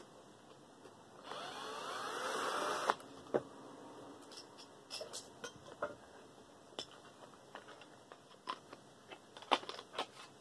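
Metal of a desk fan's housing being pried open with a hand tool: a scraping, squealing stretch of about a second and a half, growing louder and ending in a sharp snap, followed by scattered small clicks and knocks of tools and parts.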